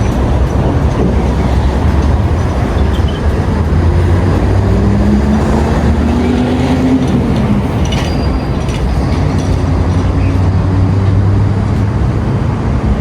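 Road traffic: a steady low rumble, with one vehicle's engine rising slightly in pitch about five seconds in.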